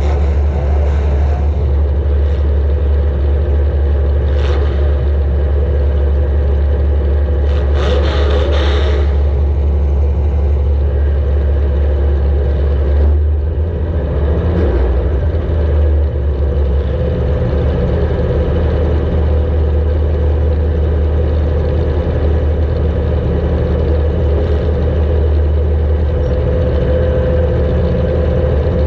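A welded compact demolition-derby car's engine running hard, heard from a camera mounted on the car, with a heavy steady rumble and a few short bursts of noise around 4 and 8 seconds in.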